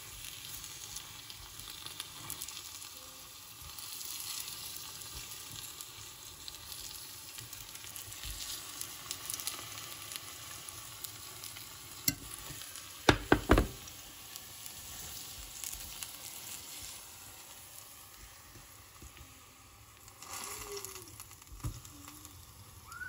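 Bananas frying in caramelising sugar syrup in a nonstick pan, sizzling and crackling steadily as they are turned with a fork. About halfway through come a few sharp knocks.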